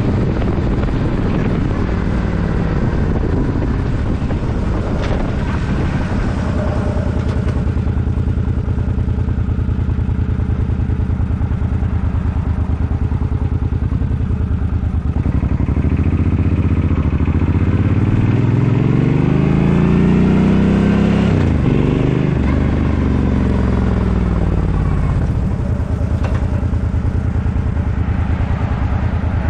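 Suzuki Boulevard M50's V-twin engine running under way. Its pitch rises over a few seconds about halfway through, drops sharply once, and then falls away again.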